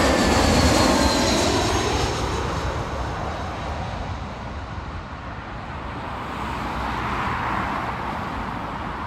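Jet airliner passing and going away, its engine noise fading steadily, with a thin whine falling in pitch as it recedes. The roar swells slightly again near the end.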